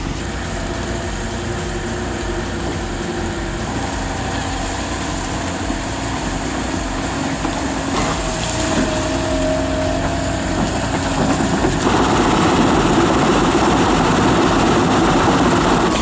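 Engine of a heavy construction machine running steadily, growing louder about twelve seconds in.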